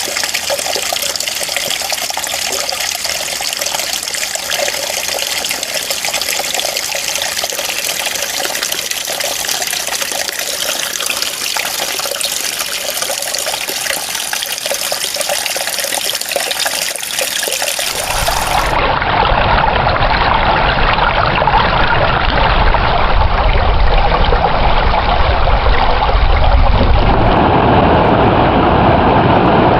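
Running water trickling steadily. A little over halfway through it switches abruptly to a louder, deeper rush of flowing water.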